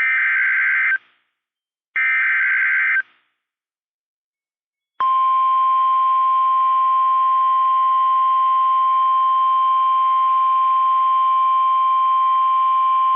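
NOAA Weather Radio SAME alert header: two one-second bursts of buzzing digital data tones, two seconds apart. After a short silence, the steady 1050 Hz Warning Alarm Tone starts about five seconds in and holds. The tone marks a warning-level alert.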